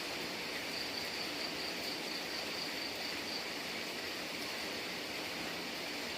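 Steady rain falling. A faint high-pitched pulsing trill comes in about a second in and fades out a little after three seconds.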